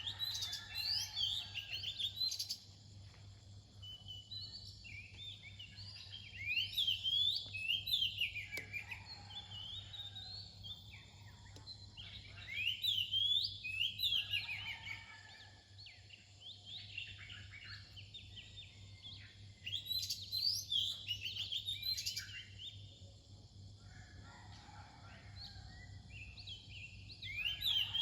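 Oriental magpie-robin singing its dawn song: phrases of varied, sweet whistled notes, each lasting two to three seconds, with pauses of a few seconds between them.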